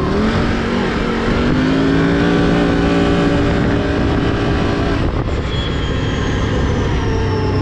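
Can-Am off-road vehicle's engine pulling away under throttle, its pitch rising over the first couple of seconds, holding steady, then easing off about five seconds in.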